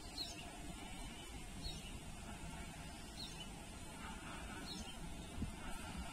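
A bird calling a short, falling high note about every second and a half, over a faint low background rumble.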